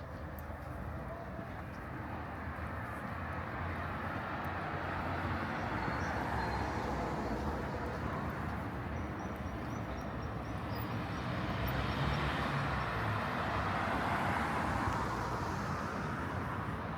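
Street traffic: a steady rush of vehicle and tyre noise that swells twice, as if two vehicles pass, once about five seconds in and again near the end.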